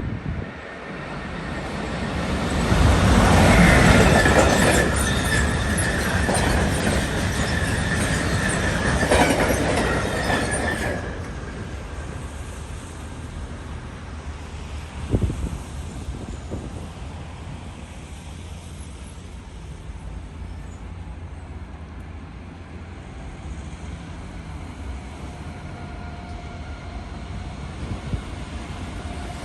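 A train passing through the station: a loud rush of wheels on rails with a steady high whine, loudest a few seconds in and cutting off suddenly about eleven seconds in. A lower rumble follows, with a single knock partway through, and the sound builds again near the end as another train approaches.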